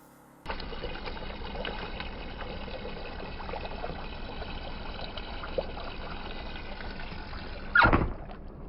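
Water running steadily from a tap into a sink, starting suddenly about half a second in. A short, loud thump comes near the end.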